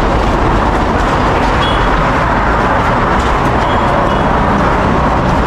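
Steady, loud road traffic noise from a busy highway, a continuous rush of vehicles passing.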